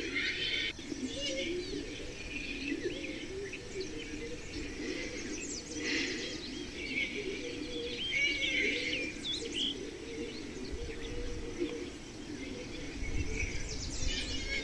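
Birds chirping and trilling in short, repeated calls, over a steady lower-pitched sound.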